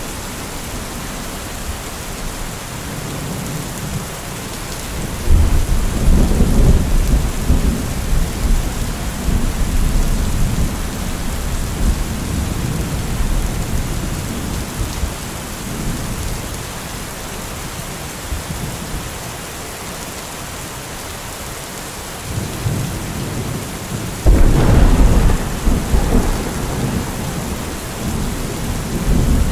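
Heavy rain falling steadily, with thunder twice: a rumble starts suddenly about five seconds in and rolls on for several seconds, and a second, sharper clap comes near the end and rumbles on.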